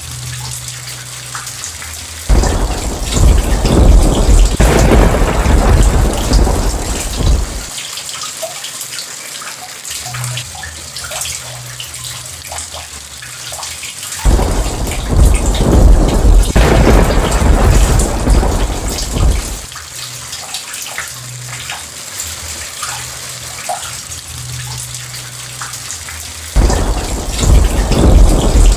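Steady heavy rain with thunder: three loud rolls of thunder, each starting abruptly and rumbling for about five seconds, spaced roughly twelve seconds apart, with the rain hissing on between them.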